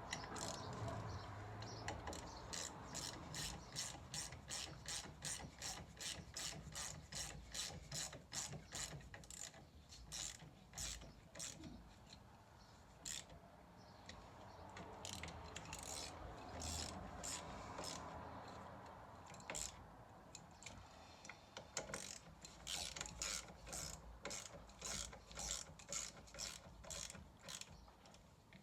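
Socket ratchet clicking in runs of even clicks, about three a second, with a smoother stretch in the middle, as the stairlift motor's mounting bolts are wound in.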